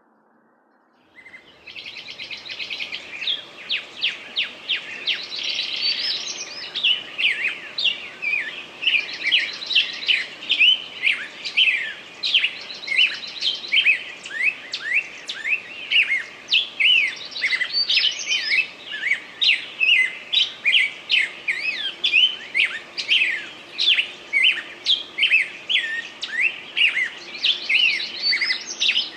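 Small birds chirping busily: many quick, overlapping chirps and trills that start about a second in and keep going without pause.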